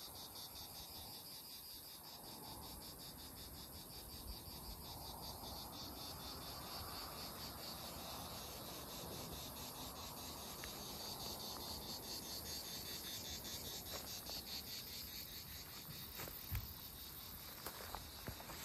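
Insect chorus, a steady high-pitched buzz that pulses rapidly, which the person out walking calls grasshoppers. A few short knocks come near the end.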